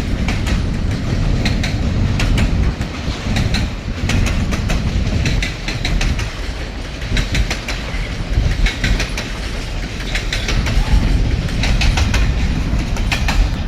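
Freight cars of a long train rolling past: a steady low rumble of wheels on rail, with many sharp clicks and clacks as the wheels pass over rail joints.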